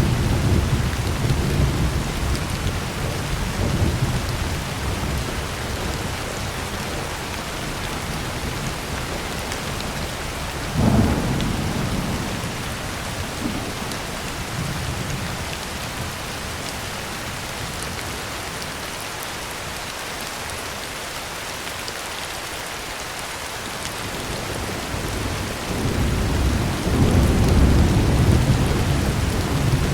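Heavy rain falling steadily on a tin roof, with thunder: a rumble at the start, a sharper crack about eleven seconds in, and another long rumble building near the end.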